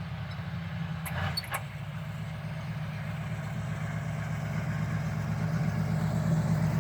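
A vehicle engine idling steadily with a low hum that slowly grows louder, with two light clicks about a second in.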